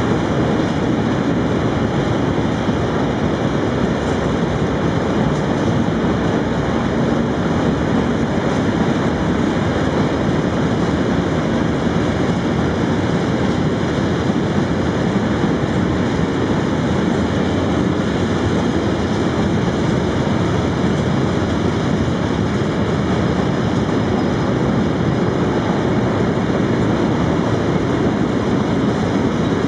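Freight train rolling past at a steady pace, a continuous loud rumble of wagons on the rails.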